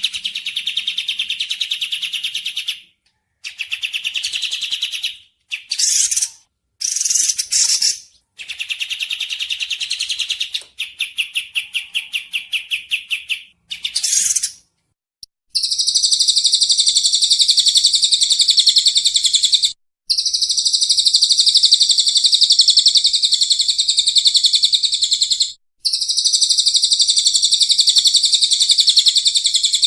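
Recorded bird calls: bursts of rapid chattering notes broken by short pauses, then, about halfway through, long continuous buzzy trills lasting several seconds each with brief breaks.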